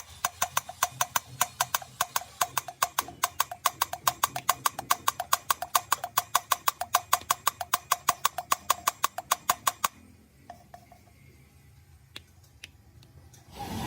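Rapid, very even tapping with a short ringing tone on each strike, about six taps a second, stopping abruptly about ten seconds in; a few faint clicks follow.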